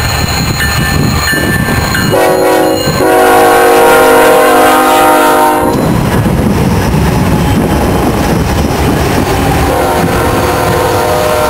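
BNSF diesel freight locomotives running under load, with the locomotive's air horn sounding a short blast, then a long one of about three seconds, and another starting near the end.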